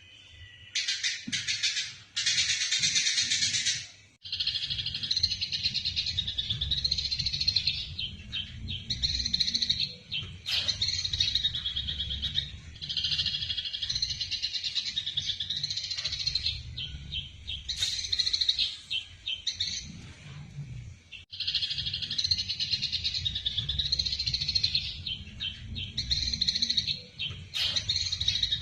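Eurasian tree sparrows chattering in fast, dense bursts of chirps, the excited calling of sparrows squaring off to fight, with a couple of short breaks. A low rumble runs underneath.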